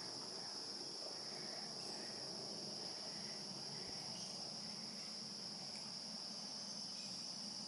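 Steady insect chorus: a continuous, unbroken high-pitched trill of singing insects, without a break.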